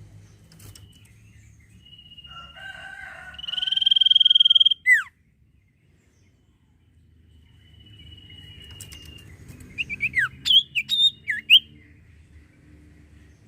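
Common iora (cipoh/sirtu) singing. A long, steady whistle swells in loudness for about two seconds and ends in a quick down-slurred note. After a pause, another long whistle leads into a quick run of short, slurred chirps.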